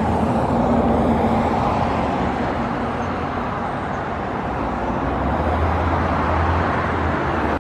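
Steady roar of road traffic, with a deep rumble under it, cutting off suddenly at the end.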